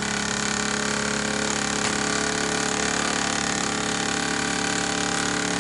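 Sterno-fired Midwest model launch steam engine running steadily at an even pace.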